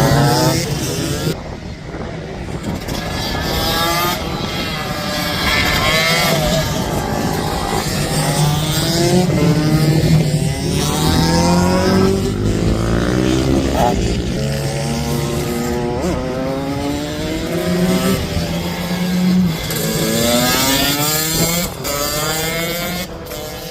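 Racing minibike engines revving hard, their pitch climbing again and again through the gears, with several bikes heard at once.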